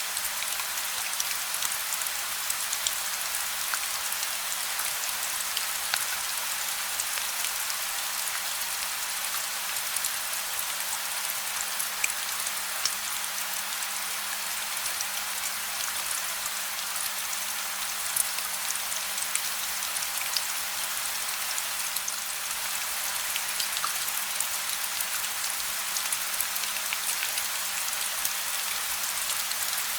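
Steady gentle rain, no thunder: an even hiss of falling rain with scattered individual drops ticking on a surface. A faint low hum runs under it.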